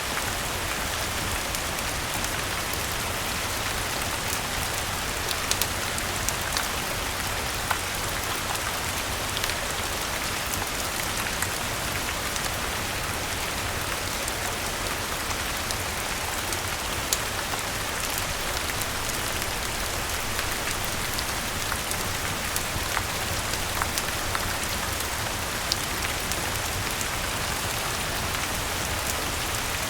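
Steady rain falling, with scattered sharp crackles and pops from a wood fire at irregular moments.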